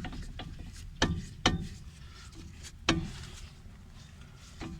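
Lada Kalina front brake caliper knocking on its worn guide pins: several sharp knocks at uneven intervals. The play in the caliper guides is the cause of the knock in the front suspension.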